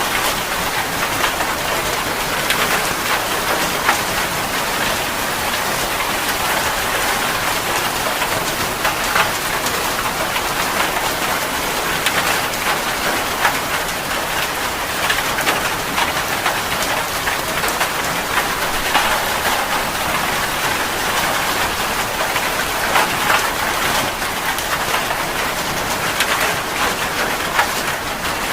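Steady rain falling, a constant hiss with frequent sharper drop impacts on a surface.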